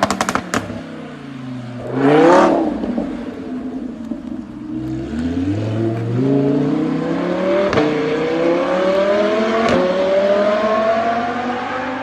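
Car engine with a few sharp exhaust pops in the first half-second and a quick rev about two seconds in. From about five seconds the engine pulls up steadily in pitch under acceleration, with a single sharp crack from the exhaust near eight seconds and again near ten, at the gear changes.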